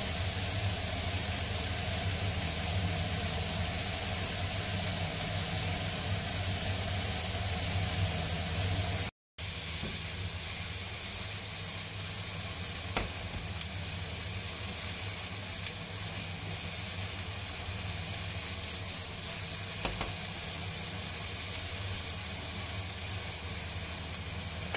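Sliced onions and bell peppers sizzling steadily in olive oil in a nonstick frying pan, with a couple of light clicks as they are stirred with a spatula. The sound cuts out for a moment about nine seconds in.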